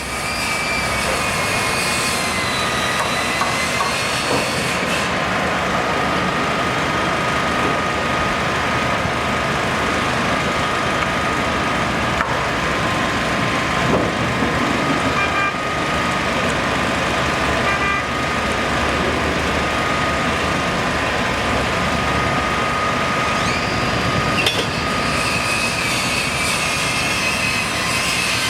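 Steady machinery and traffic noise with a constant high whine, typical of a construction site beside busy streets.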